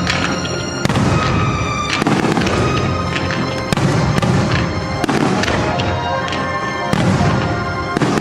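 Aerial fireworks shells bursting with repeated booms, one every second or two, over the show's accompanying music.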